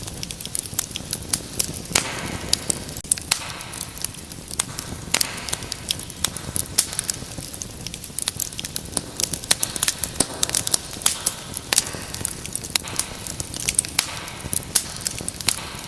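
Wood fire crackling in a fireplace: many sharp irregular pops and snaps over a steady low hiss of burning.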